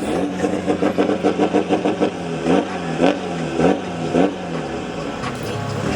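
Car engine revved hard in a string of quick throttle blips, with a rapid pulsing at first and then several sharp revs about half a second apart.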